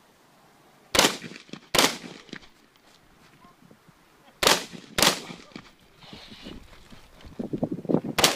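Rifle shots on a shooting range: two shots about a second in, two more about four and a half seconds in, and a fifth near the end. Before that last shot comes a run of quieter knocks.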